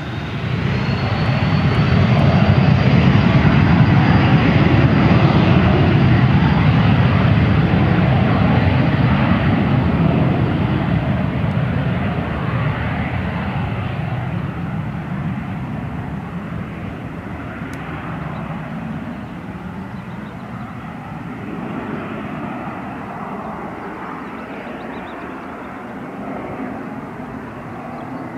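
A Cessna 510 Citation Mustang's twin turbofan jet engines at high power, apparently on takeoff. The sound builds to loud within the first few seconds, with a high whine that climbs slightly, then fades gradually as the jet moves away.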